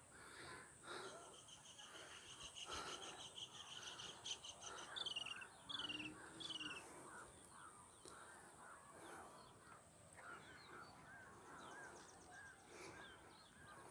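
Faint distant birdsong: a rapid high trill for the first few seconds, then three quick downward-sliding notes, with soft scattered chirps throughout.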